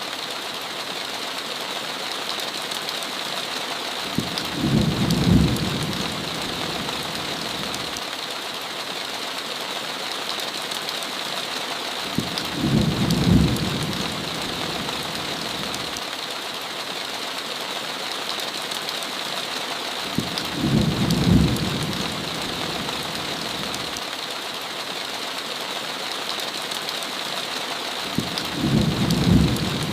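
Steady heavy rain hiss with four short, low rumbles of thunder at even intervals of about eight seconds.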